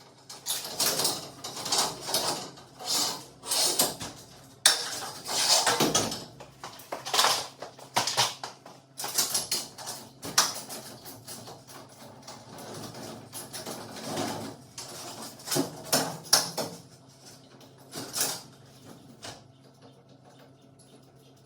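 Metal hardware and hand tools clinking and clanking in irregular bursts, as parts are handled during a garage door spring replacement. The clanking thins out near the end.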